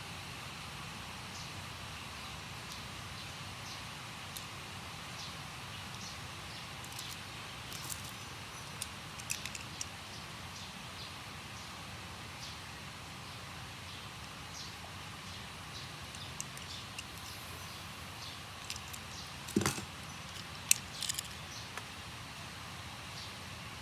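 Scattered light clicks and taps of small hard objects being handled, with one sharper knock a little past the middle, over a steady background hiss.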